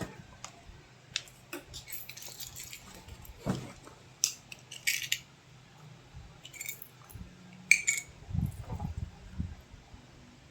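Hands handling a smartphone and its packaging: scattered clicks, taps and rustles, with the loudest tap near the end.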